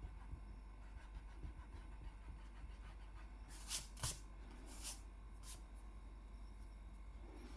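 A drawing tool scratching on paper in four short strokes around the middle, the middle two loudest, over faint room hiss.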